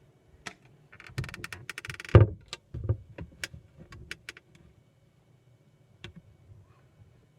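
Small objects being handled and packed. A rapid rattling run of clicks from about one second in ends in a loud knock, followed by scattered clicks and taps that die away.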